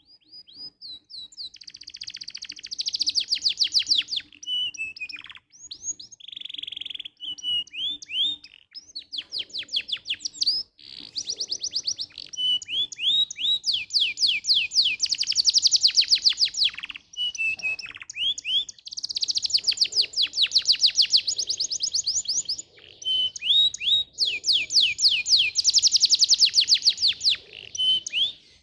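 Domestic canary singing a continuous, high-pitched song of rapid trills and rolls: runs of fast repeated notes in phrases of a few seconds each, separated by short pauses.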